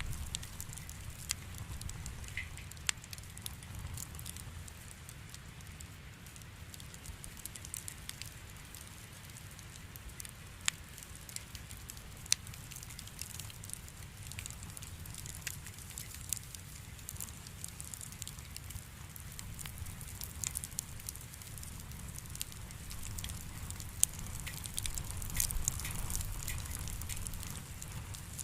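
Wood bonfire burning: a low steady rumble of flame with scattered sharp crackles and pops from the firewood, which come more often for a few seconds near the end.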